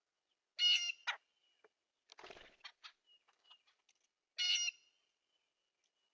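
A bird at the feeder gives two harsh, buzzy calls, each about half a second long, one near the start and one about four seconds later. A short scratchy rustle comes between them.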